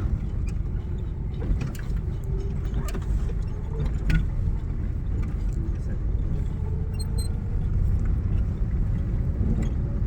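Manual car's engine running with a steady low rumble, heard from inside the cabin as the car is driven off slowly, with a few faint clicks.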